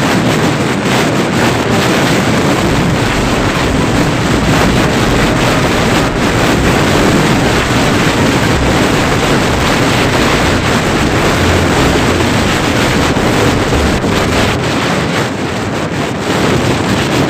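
Wind blasting the microphone of a moving motorcycle, a loud steady rush with the bike's running noise underneath.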